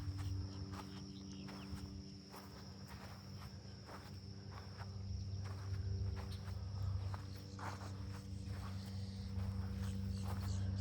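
Footsteps along a trail at a walking pace, over an insect's steady high-pitched trill and a low steady hum.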